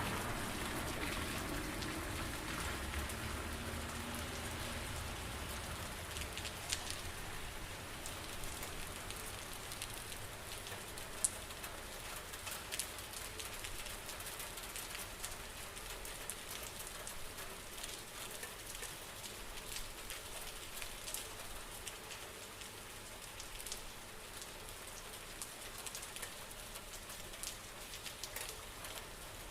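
Steady rain falling, with scattered sharp ticks of single drops hitting a surface. A low rumble fades away over the first few seconds, and the rain slowly grows a little quieter.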